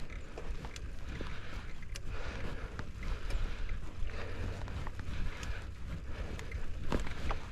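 Wind rumbling on the microphone of a camera on a moving mountain bike, with scattered clicks and rattles from the bike and trail.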